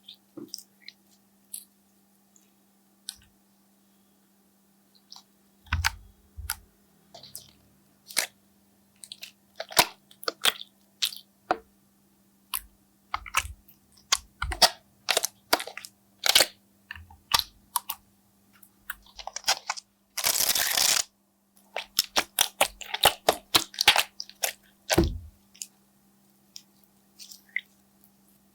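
Slime being squished and worked by hand, giving an irregular run of sharp crackling clicks and pops over a faint steady hum. About two-thirds of the way through, a rushing noise lasts for about a second.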